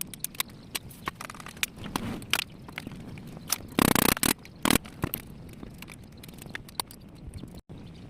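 Hand work on a bicycle: a run of small clicks and knocks from tools and parts, with a short, louder harsh scrape about four seconds in and another just after.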